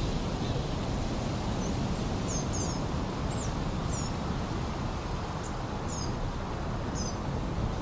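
Steady rush of river water, with a small bird giving short, high two-note chirps about once a second over it.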